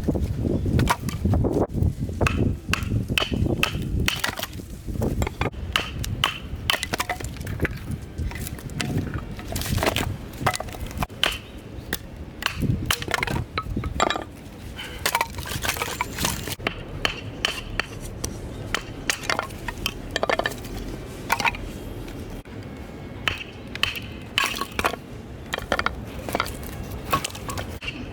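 Firewood knocking and cracking: many sharp, irregular clicks and knocks, with some louder strikes.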